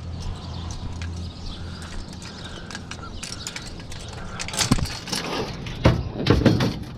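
Clicks and rattles of things being handled, over a low steady hum that fades out about three seconds in. A few louder sounds that slide in pitch come near the end.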